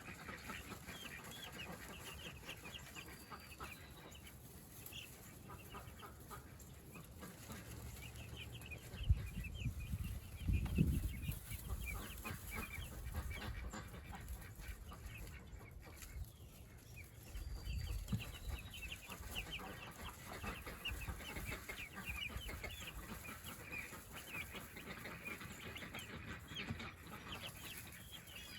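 Meat chickens calling, with rapid short peeps and clucks going on throughout. Low rumbling noises come up near the middle and again a few seconds later.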